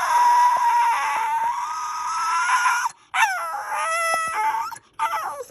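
A German spitz (Pomeranian) howl-talking back at its owner in three drawn-out, high-pitched calls. The first is about three seconds long and rises slightly at its end. The second swoops down and then holds. A short falling call comes near the end.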